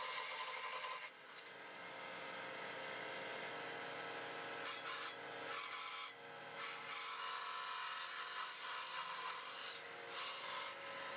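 An electric power tool working wood, running steadily with short breaks about a second in, around five and six seconds in, and near ten seconds.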